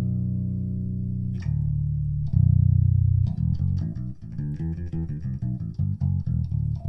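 Electric bass guitar played through a Greenboy Fearless F112 bass cabinet, with the amp's treble turned all the way up. It starts with a few long held notes, then from about three seconds in a quick run of short plucked notes.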